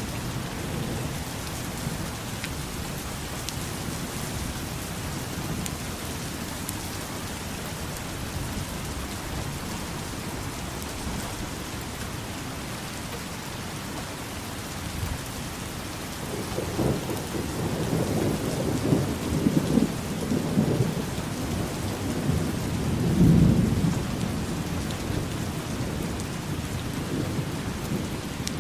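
Steady rain falling, with a low rolling rumble of thunder that builds past the middle and peaks near the end before easing off.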